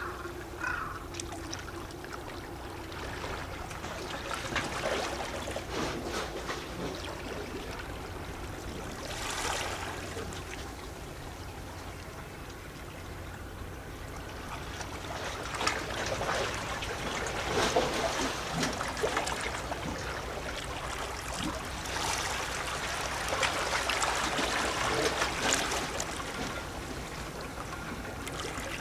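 Small sea waves lapping and gurgling against rocks, a splashing wash that swells and eases every few seconds, loudest about two-thirds of the way through.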